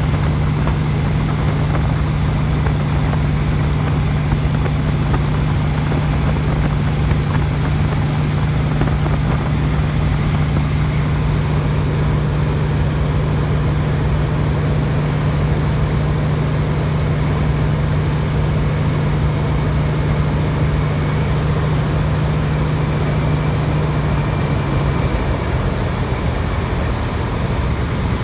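Boeing Stearman biplane's radial engine running steadily in flight on the landing approach, heard from the open cockpit over a constant rush of wind. About 25 seconds in, its pitch drops slightly as power comes back.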